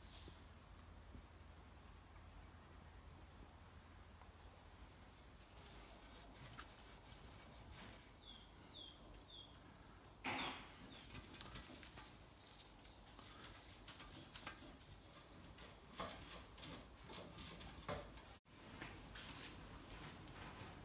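A small bird chirping: three quick falling notes about eight seconds in, then a run of short high chirps for several seconds. Faint knocks and clicks of handling come and go around it.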